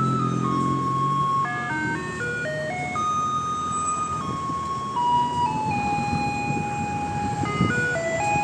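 Garbage truck's loudspeaker playing an electronic chime melody, one clear note at a time, stepping up and down in pitch over a low rumble.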